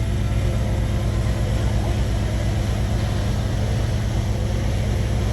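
A Shantui bulldozer's diesel engine running steadily, a low, even drone with no change in pitch.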